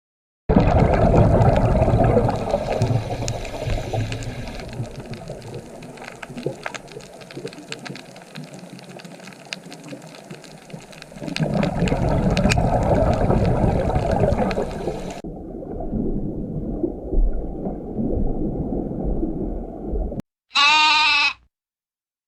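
Steady noisy ambience with no clear pitch, changing abruptly twice as clips are cut together. Near the end a goat gives one short, wavering bleat.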